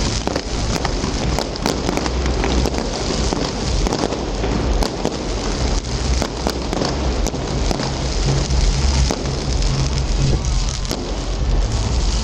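Fireworks crackling densely and without a break, like heavy rain, with many sharp pops through it over a steady low rumble.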